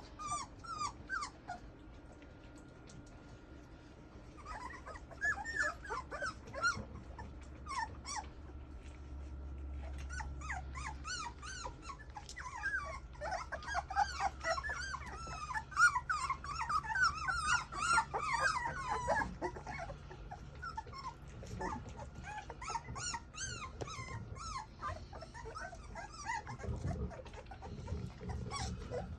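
A litter of English Mastiff puppies whimpering and squealing: many short high calls overlapping, busiest in the middle.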